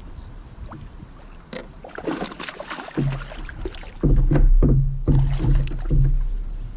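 Water splashing as a hooked bass thrashes beside the kayak, about two seconds in, followed by a run of low knocks and rumbles on the kayak as the fish is brought in.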